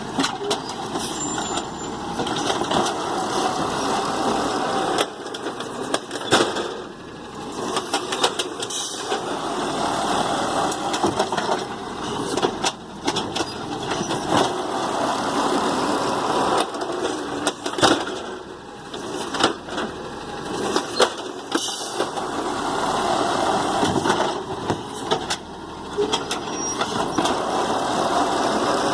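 Garbage truck working along a row of trash cans: the engine runs up and settles back again and again as the hydraulics cycle, with sharp knocks and bangs of cans and truck parts between the swells.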